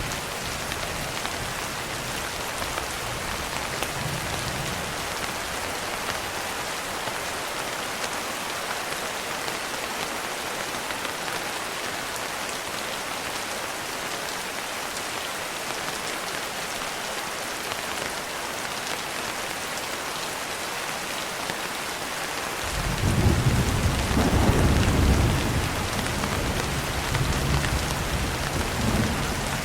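Steady rain hiss. About three-quarters of the way through, a roll of thunder starts suddenly and rumbles on for several seconds, loudest just after it begins.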